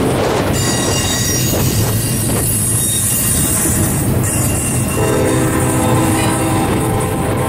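Double-stack container train cars rolling past at close range: a steady rumble of steel wheels on rail with high, ringing wheel squeal over it, a new set of lower squealing tones setting in about five seconds in.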